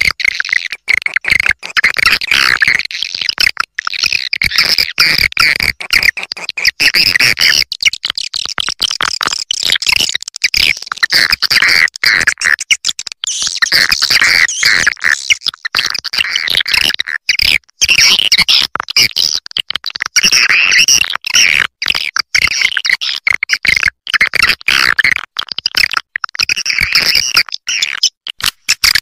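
Swiftlet call recording of the kind played to lure swiftlets into nesting houses: a loud, unbroken flurry of rapid twittering chirps, many overlapping, in a high register.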